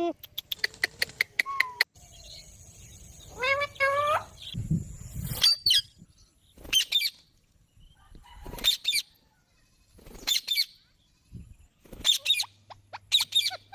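Pet green parrot calling: a run of quick clicks, one wavering call, then short harsh screeches every second or two.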